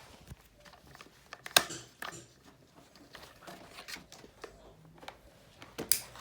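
Scattered small knocks and rubbing from handling a Golair 12-inch desk fan, with two sharp clicks standing out, about a second and a half in and near the end.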